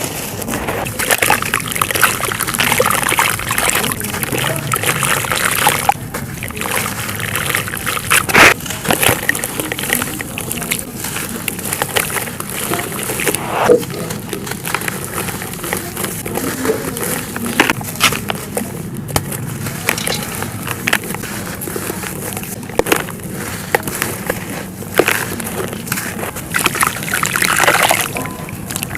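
Dry clay and charcoal ash crumbling and crunching: a continuous crackling with many sharp snaps, the loudest about eight seconds in and again near fourteen seconds.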